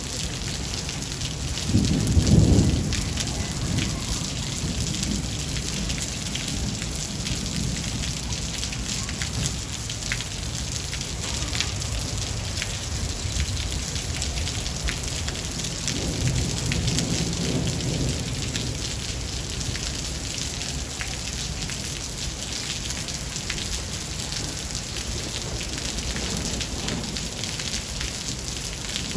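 Steady rain pattering and hissing through a thunderstorm, with low rolls of thunder: a louder rumble about two seconds in and a softer one around the middle.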